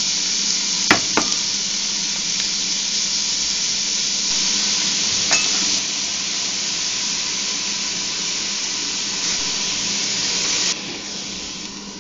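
Chopped vegetables sizzling as they sauté in a stainless steel pot, with a few sharp knocks of a utensil against the pot, two of them about a second in. The sizzle drops off suddenly near the end.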